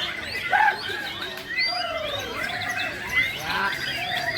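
Several white-rumped shamas (murai batu) singing against each other at once: a dense, overlapping tangle of rising and falling whistles and chattering phrases, with no break.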